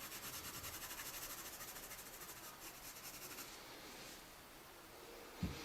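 Hard 2H graphite pencil shading on paper: quick, even back-and-forth rubbing strokes, faint, fading out after about three and a half seconds, with a soft thump near the end.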